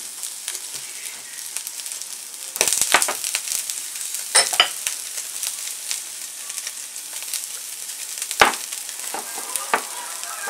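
Sweet shrimp (amaebi) heads sizzling on aluminium foil in a frying pan as they roast crisp. A steady high hiss, with sharp clicks and crackles scattered through it, a cluster of them about three seconds in.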